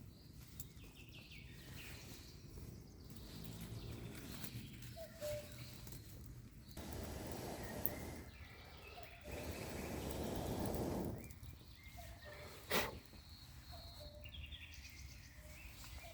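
Forest ambience with short bird chirps scattered throughout. About seven seconds in and again about nine seconds in there are two spells of handling noise, each a second or two long, and a single sharp click comes near the end.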